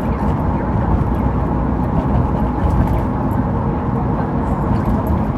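Car cabin noise while driving: a steady low rumble of tyres and engine heard from inside the car.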